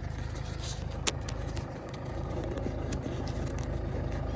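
Diesel engine idling steadily in the background, with a single sharp click about a second in.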